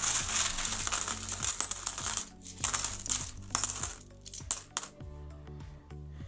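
Loose metal coins clinking and jangling as they are rummaged through in a tub, dense at first, then in a few separate clinks, stopping about five seconds in. Background music runs underneath.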